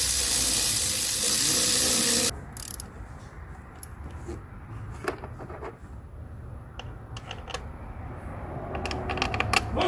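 A loud hiss that cuts off suddenly about two seconds in, then scattered metallic clicks and clinks of hand tools working on an engine, with a quick run of clicks near the end.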